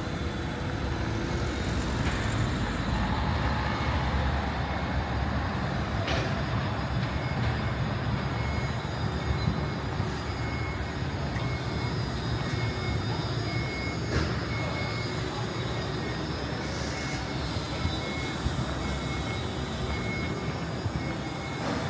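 Steady city traffic rumble of passing vehicles, with a faint high tone pulsing on and off in the background from about a third of the way in.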